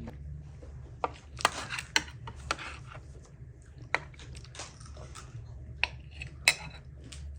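Dishes and cutlery clinking and knocking: about a dozen sharp, separate clicks at irregular intervals over a low steady hum, the loudest about six and a half seconds in.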